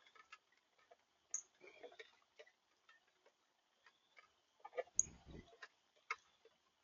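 Faint, irregular clicks and taps from birds at a backyard feeder, with two very short high chirps and a soft low thump about five seconds in.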